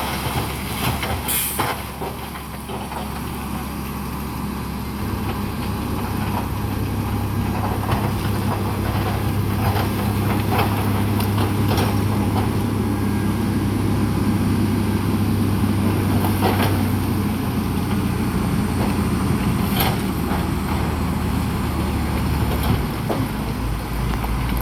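Diesel engine of heavy earthmoving equipment running under load, its drone growing heavier about five seconds in and easing near the end, with a few sharp metallic clanks.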